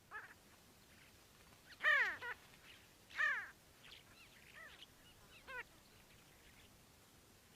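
A bird calling: about five short calls, each arching up and then down in pitch, the two loudest about two and three seconds in.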